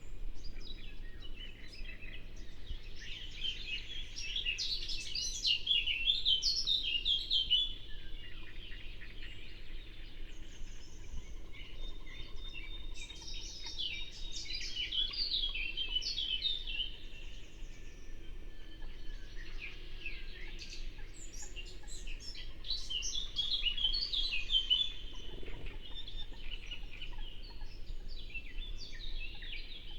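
Songbirds singing in three long bursts of rapid, chattering phrases, with quieter calls between them, over the faint steady sound of a river stream.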